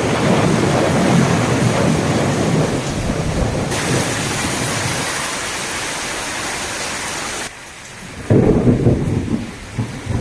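Heavy rain pouring steadily, with deep rumbling over the first few seconds and again near the end.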